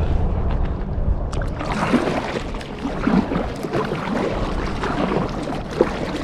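Kayak paddle strokes dipping and splashing in lake water, irregular and continuous. A low rumble fills the first second and a half before the splashing starts.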